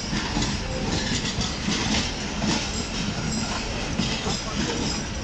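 Pakistan Railways passenger coaches rolling past a station platform, a steady rumble of wheels on rail with light clatter over the rail joints.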